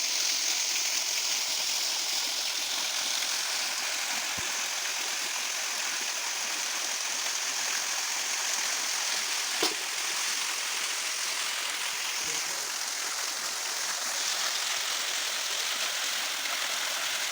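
Small stream running steadily, an even rush of water, with one short sharp knock about ten seconds in.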